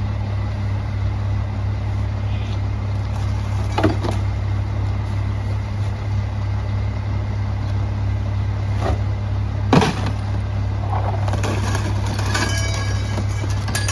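Garbage truck engine idling steadily, with two sharp knocks about four and ten seconds in and a run of clinking rattles near the end.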